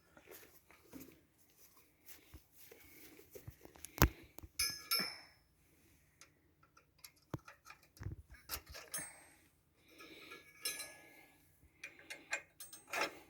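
Scattered metallic clinks and knocks of hand tools and bolts against the steel counterweight and dozer frame, a few ringing briefly; the loudest is a single sharp knock about four seconds in.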